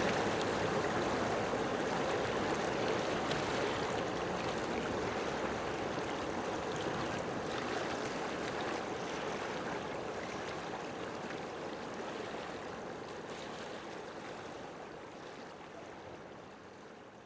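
A steady, even rushing noise like running water, slowly fading out toward the end.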